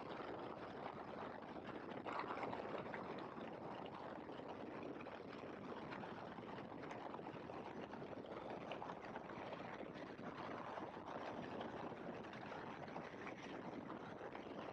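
Great Lakes open-cockpit biplane in flight: a steady rushing of wind and engine noise in the cockpit.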